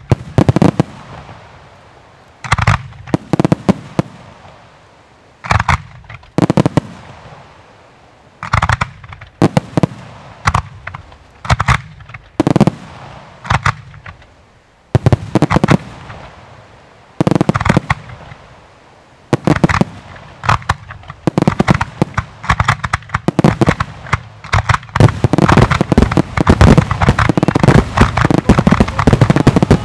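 Firework batteries firing aerial shots: clusters of sharp bangs every second or two, each trailing off in crackling stars. Near the end they build into a dense, nonstop barrage of bangs.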